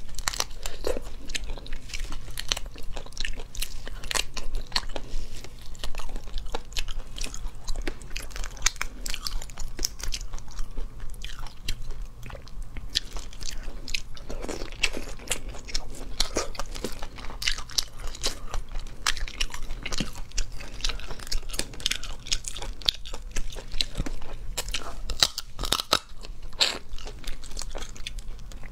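Close-up eating of cooked shrimp: a steady run of crunching, shell-cracking clicks and chewing as the shells are bitten and pulled apart.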